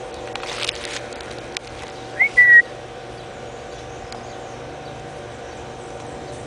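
A brief high-pitched whistling tone, a quick rising chirp followed at once by a short steady note. It is preceded by a soft rustle about half a second in.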